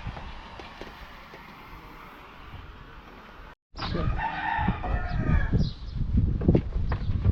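Up to a sudden cut about halfway through, a steady low rumbling noise. After the cut a rooster crows once, for about a second and a half, over a run of short knocks and thumps.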